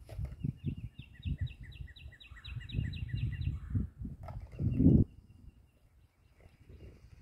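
A songbird singing a quick run of repeated short falling notes, about four a second, for roughly three seconds. Under it a louder low rumble on the microphone comes and goes, peaking about five seconds in.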